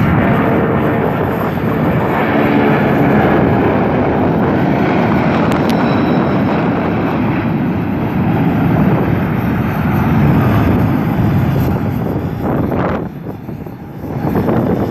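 Boeing 747-400's four Rolls-Royce RB211-524H turbofans running at high power for take-off: a loud, steady rush of engine noise that dips briefly near the end.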